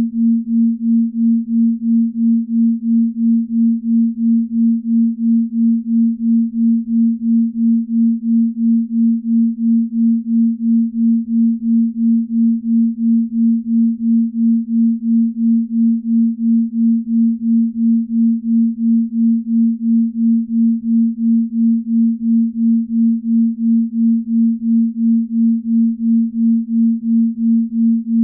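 Binaural-beat track: a single low, pure sine tone held steady, its loudness throbbing evenly about three times a second, the beating of two slightly detuned tones meant for the left and right ears, slow beat for deep sleep.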